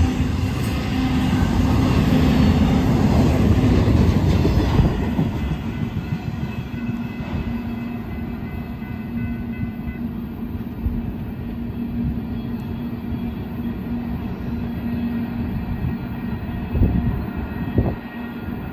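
Double-stack intermodal container cars rumble and clack past on the rails, loudest for the first few seconds and then fading to a softer rumble as the end of the train moves away. A grade-crossing signal bell rings steadily throughout, and two thumps come near the end.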